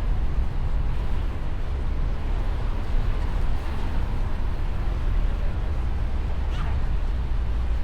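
Mustang convertible driving with the top down: a steady low rumble of wind and road noise.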